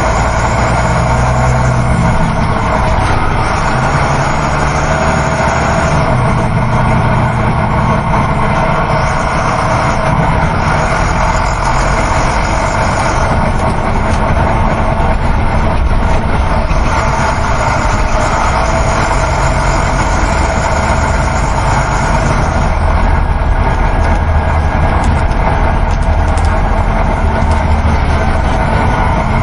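Steady interior noise of a moving coach bus: a constant low engine drone mixed with road and tyre noise.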